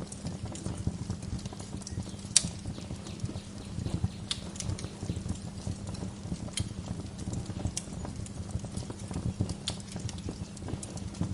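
Wood fire crackling in a fireplace: a steady low rumble of burning with irregular sharp pops and snaps, the loudest pop about two seconds in.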